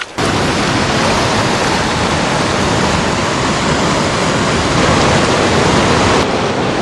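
River waterfall rushing in a loud, steady roar of falling water. It cuts in abruptly just after the start.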